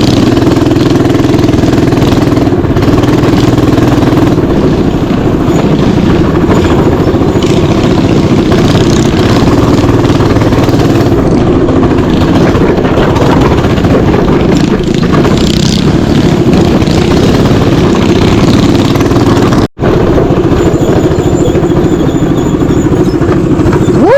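Mini bike engine running loud and steady under way, close to the microphone, with a split-second break in the sound near the end.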